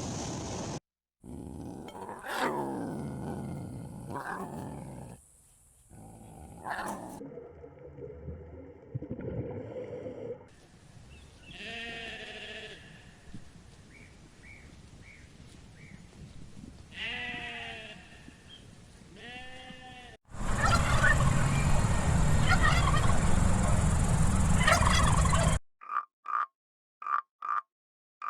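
A string of different animal calls, each cut off sharply before the next begins. It includes pitched calls that glide up and down and a few seconds of loud, even noise. It ends with short, evenly spaced croaks, about two a second.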